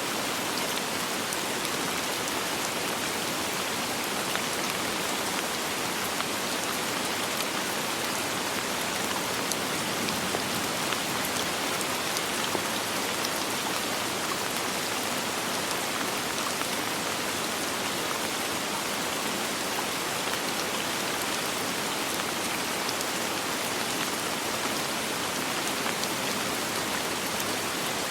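Steady, even rain falling on a surface, a dense patter of drops with no thunder.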